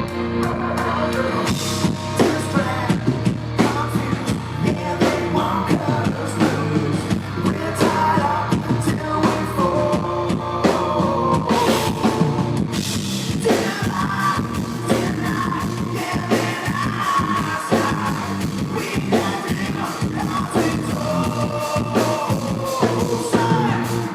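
Live rock band playing a song, with electric guitar over bass and a steadily beating drum kit.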